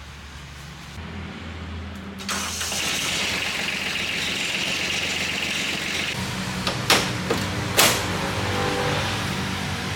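Mini tractor engine running, much louder about two seconds in, with two sharp knocks near the middle.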